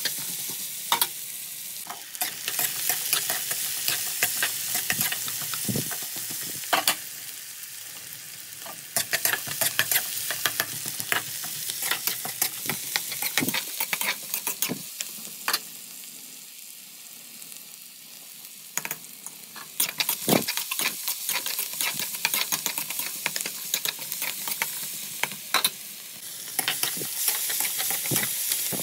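Chicken masala sizzling as it fries in a pan while being stirred, with frequent sharp clicks and scrapes of the utensil against the pan. The sizzle eases off somewhat a little past halfway, then picks up again.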